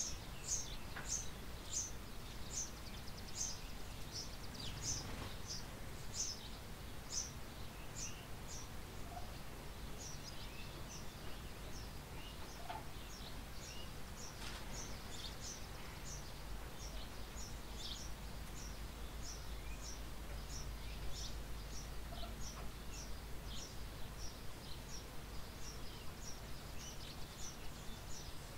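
Small birds in a barn chirping steadily: a run of short, high, downward-sliding chirps, about two a second, with a few fainter calls in between, over a low steady hum.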